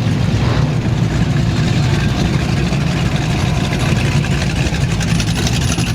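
A car engine running at idle with a steady low rumble.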